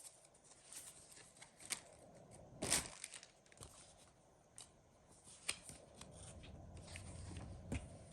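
Paper instruction manual being opened and its pages handled: soft, scattered rustles and crinkles, the loudest about three seconds in.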